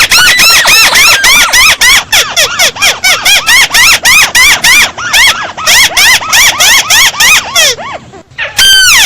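Boosted-volume bird calls of the bird known in Vietnamese as 'chim mắt xéo': a fast run of sharp, arching notes, about four a second, stops nearly eight seconds in. After a short break comes one longer call of quick falling notes.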